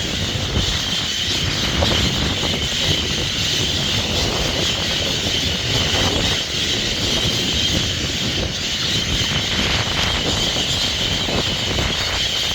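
A large flock of roosting birds calling all at once in a dense, unbroken chorus, over a low rumble of city traffic.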